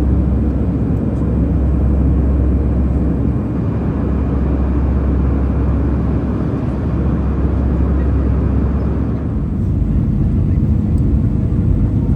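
Steady low drone of a moving vehicle heard from inside, with a strong deep hum that drops away about nine seconds in while the broad rumble carries on.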